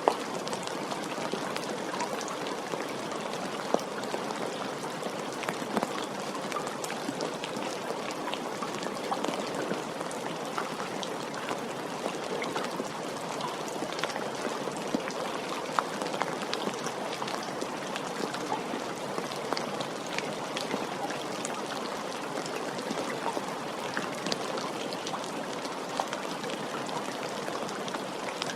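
Steady rain: an even hiss of falling rain with scattered sharp ticks of single drops hitting a surface.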